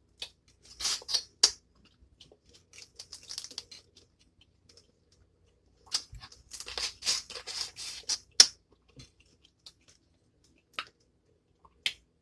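Close-miked eating sounds from a spicy seafood boil: seafood shells crackling and snapping as they are broken and peeled, with wet mouth smacking. They come in short irregular clusters about a second in, around three seconds, and from about six to eight and a half seconds, with quiet gaps between.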